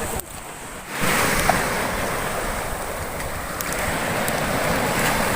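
Sea surf washing on the shore, with strong wind buffeting the microphone. The noise is steady and comes in abruptly louder about a second in.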